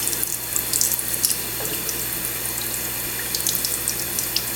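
Kitchen sink tap running steadily, its stream splashing over a cockatiel held under the water.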